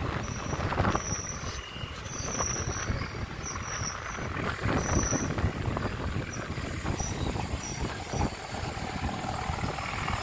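Indian Railways passenger train running along the track, heard from aboard the moving coach: continuous rumble and rattling clatter of the wheels on the rails.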